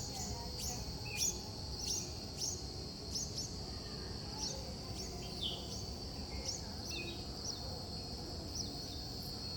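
Small birds chirping in short, sharp repeated notes, about two a second at first and then more spread out, over a steady high-pitched insect drone and a low background rumble.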